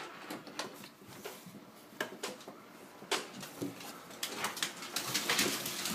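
Dog whining softly while held at a sit-stay, with scattered clicks and rustling and a louder rustle near the end.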